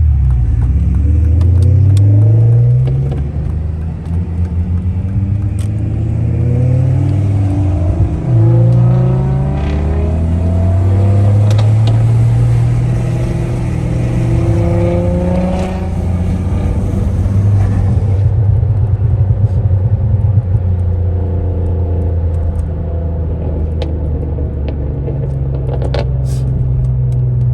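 Big-turbo car engine accelerating hard through the gears: its pitch climbs, falls back at each upshift (about 4 and 8 seconds in), holds fairly steady for a while, then rises again near the end.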